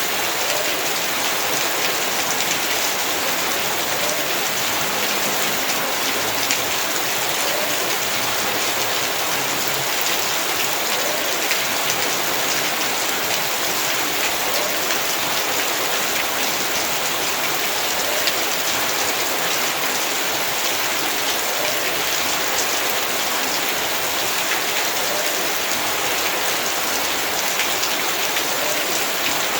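Heavy rain falling steadily on surfaces in a yard, a dense, even hiss with many small drop impacts.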